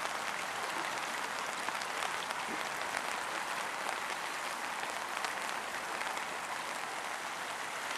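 Steady patter of rain mixed with the rush of a shallow stream running over rocks, an even hiss full of fine ticks.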